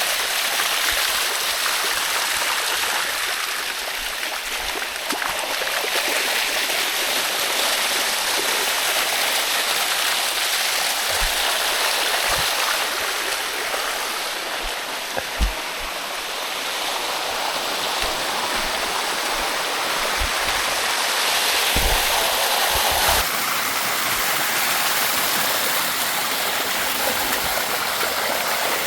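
Water rushing steadily down a waterfall's rock cascade, with a few short low thumps on the microphone, one sharper about halfway through.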